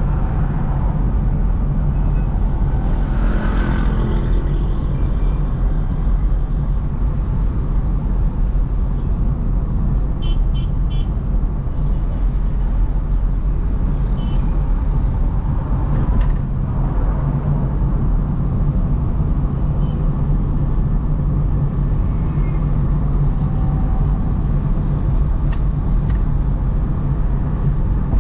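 Steady rumble of a car driving through city traffic, engine and tyre noise, with other vehicles swelling past briefly about three seconds in and again around sixteen seconds.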